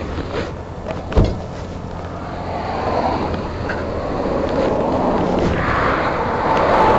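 Road traffic noise, with vehicles swelling past in turn, and one sharp thump about a second in.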